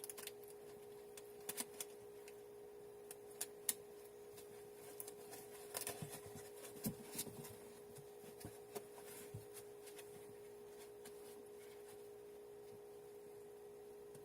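Faint rustles and small clicks of wet dyed fabric being handled and pulled apart, scattered through the first seven seconds or so, over a steady low hum.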